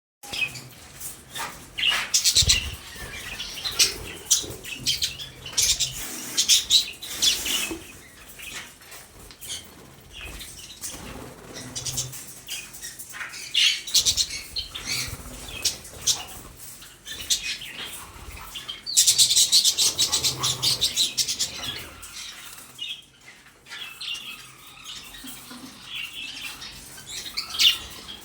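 Parrot flapping its wings in repeated bursts of rapid strokes; the longest, densest burst comes about two-thirds of the way through.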